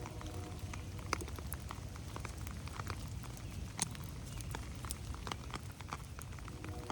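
Rain falling, heard as scattered sharp drips and drops over a faint hiss and a low steady rumble. The loudest drop comes a little under four seconds in.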